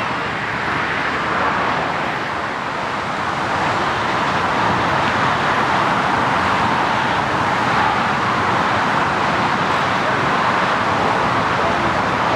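Jet airliner engine noise: a steady roar without distinct tones that grows gradually louder.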